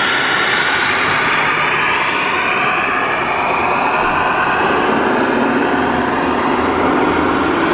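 1/14-scale RC construction models running: a steady mechanical whine that slides up and down in pitch, with a lower tone rising about five seconds in.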